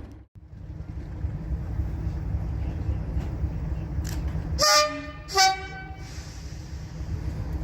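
Diesel locomotive's horn: two short blasts, a lower note then a higher one, over the steady low rumble of the running diesel engine.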